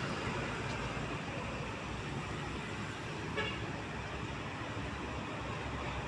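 Steady road noise from passing trucks, with one short horn toot a little past halfway.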